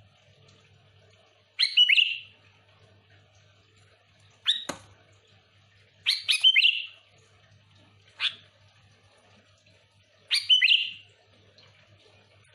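Sooty-headed bulbul (kutilang) giving five short, sharp calls, one about every two seconds.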